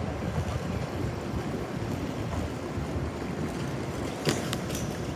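Steady low rumble of an Amtrak train at the station, with a few sharp clicks about four seconds in.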